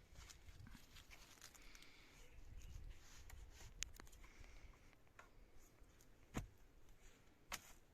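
Faint handling noises in a quiet space: scattered light clicks and taps, with a few sharper knocks in the second half.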